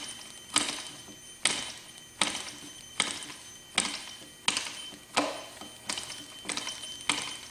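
Cox .020 glow engine's propeller being flicked over by hand, about ten sharp snaps roughly one every three-quarters of a second, without the engine catching. A faint steady high whine from the energised glow plug igniter runs underneath.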